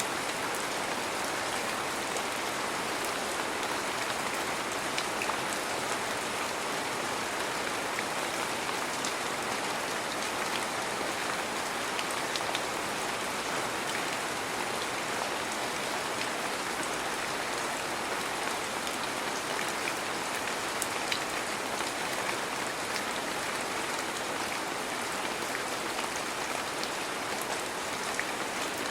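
Heavy rain falling steadily, an even hiss with scattered individual drops ticking.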